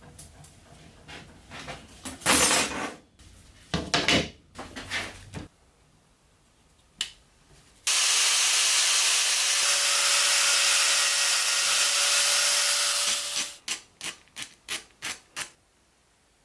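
Workshop handling and rubbing noises from making a new toy-truck grille, then a small power tool runs steadily for about five seconds and finishes with a run of about seven short bursts.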